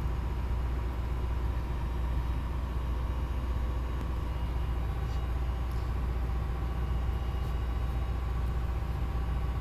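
Tugboat's diesel engine running steadily underway, a deep unbroken drone heard from on board.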